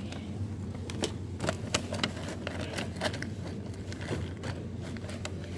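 Supermarket background: a steady low hum with scattered light clicks and rattles, as of small items being handled.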